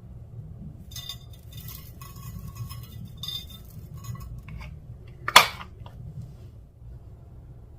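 Small containers and items clinking and rattling while slime is being mixed, then one sharp, loud clack about five seconds in, over a low steady hum.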